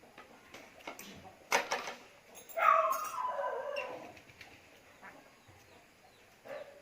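An animal call, pitched and falling, lasting a little over a second, with a few sharp clicks just before it.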